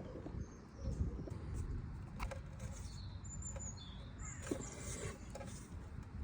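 Quiet background noise with a few faint, short bird chirps and some light clicks.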